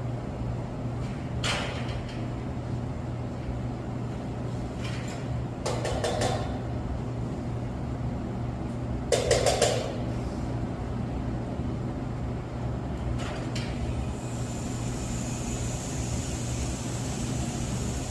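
Steady low mechanical hum with scattered sharp clicks and knocks, as of tools and metal parts being handled on a boiler, the loudest a quick rattle of clicks about nine seconds in. A faint high hiss comes in about fourteen seconds in.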